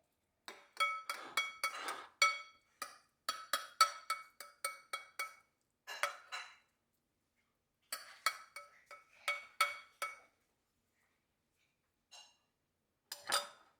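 A metal spoon clinking against a dish in quick runs of ringing clinks, several a second, with pauses between the runs, as in stirring or scraping a bowl.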